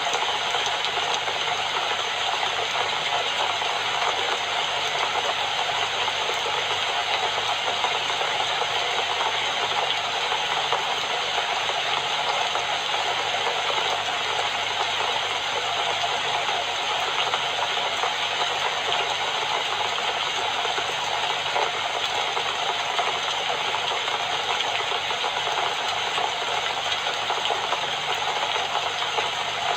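Steady rainfall, an even hiss with fine pattering that does not change.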